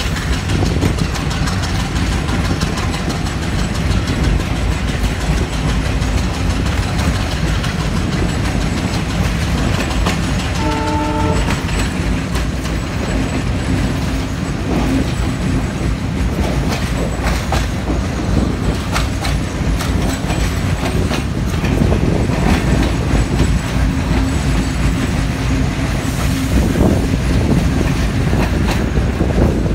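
A moving train heard from on board: a continuous low rumble, with wheels clicking over rail joints. About eleven seconds in, a train horn sounds one short blast.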